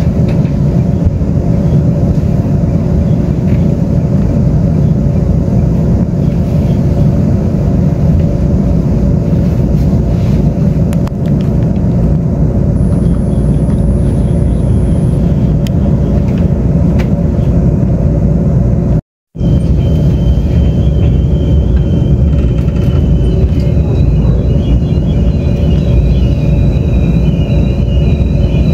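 Steady running rumble of a Taiwan Railway Tze-Chiang express train heard from inside the passenger car, with a steady hum over it. Sound cuts out for an instant about two-thirds of the way through, and after that a thin high whine joins the rumble.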